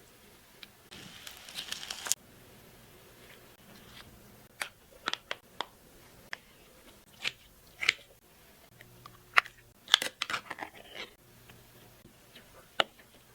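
Handling noises: about a second of rustling, tearing-like noise early on, then scattered sharp crinkles and clicks, some in quick clusters.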